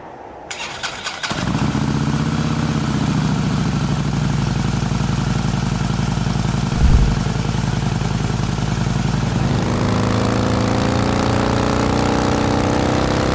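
Custom motorcycle engine being started: a few clicks as it cranks, then it catches after about a second and settles into a steady idle. There is a brief low thump about seven seconds in.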